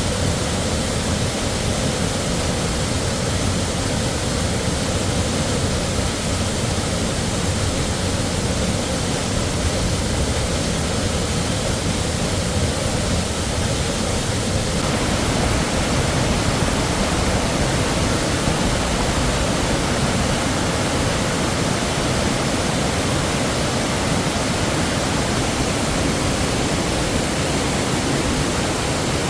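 Waterfall rushing, a loud steady roar of falling water; about halfway through its character changes suddenly and it sounds fuller.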